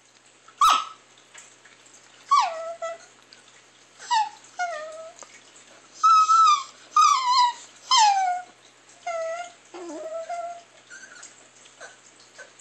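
Chihuahua giving a string of short, high whines and yelps, about nine in all, each one falling in pitch, the loudest in the middle of the run.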